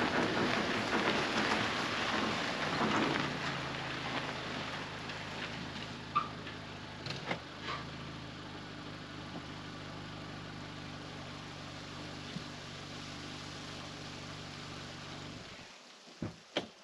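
A vehicle engine running: first with the rumble of rolling, then settling to a steady idle with a few clicks and knocks, and switched off abruptly near the end.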